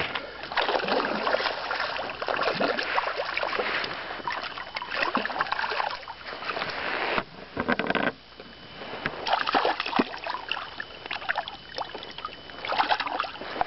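Lake water lapping and slapping against the hull of a small fishing boat, a steady run of small irregular splashes with a brief lull about halfway through.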